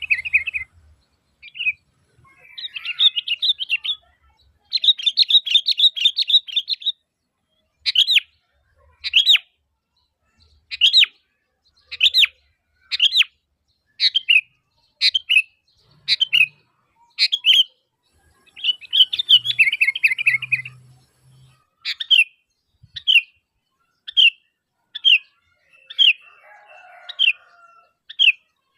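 Sooty-headed bulbul calling: stretches of fast chattering broken up by single sharp, downward-sliding notes about once a second.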